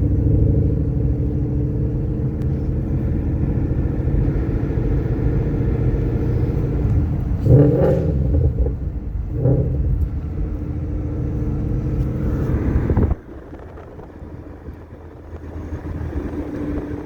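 Ford Coyote 5.0 V8 running as the car drives slowly, heard from inside the car, with two brief louder surges about halfway through. Near the end the sound drops abruptly to a quieter, steady rumble.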